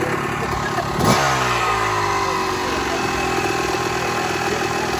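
Motorcycle engine idling, revved sharply once about a second in, its pitch then falling back to a steady idle.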